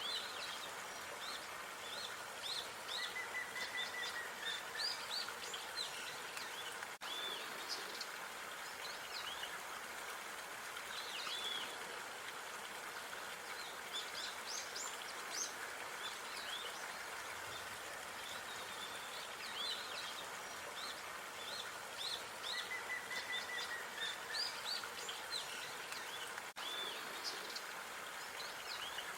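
Outdoor park ambience: small birds chirping and calling in short bursts, with an occasional trill, over a steady hiss of background noise. The same stretch repeats about twenty seconds later, as the recording is looped.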